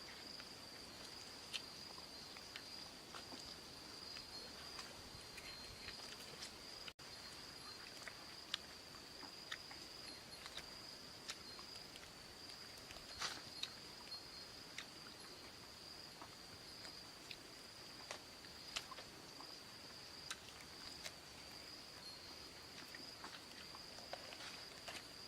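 Faint, steady high-pitched drone of crickets or other insects, with scattered soft clicks and taps.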